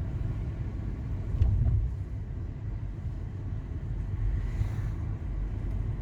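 Car driving, a steady low rumble of road and engine noise that swells briefly about a second and a half in.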